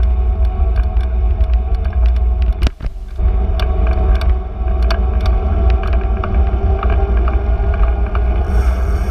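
Steady low rumble of riding a bicycle on city streets, with many small ticks and rattles, briefly dropping away about three seconds in.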